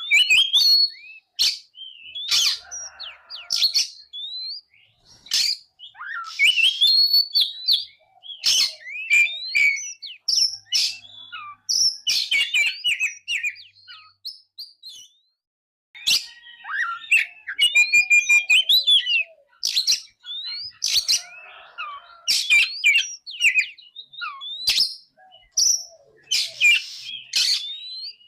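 Oriental magpie-robin singing a varied song of loud whistles, chirps and sharp gliding notes in quick phrases. It stops briefly about halfway, then resumes with a fast run of repeated notes.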